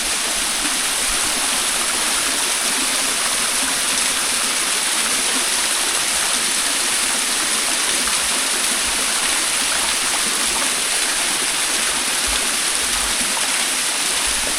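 Small forest waterfall running steadily over rock: an even rush of falling and splashing water.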